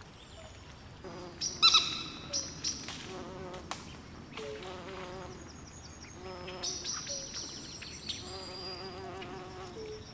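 Swamp animal chorus: low wavering trills that repeat every second or two, high chirps and whistles over them, and one loud ringing call about one and a half seconds in, followed by a few sharp clicks.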